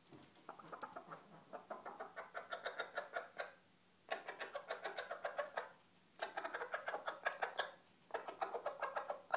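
Bantam chicken giving four bouts of fast, rapidly repeated short clucks, each bout lasting one to three seconds with brief pauses between.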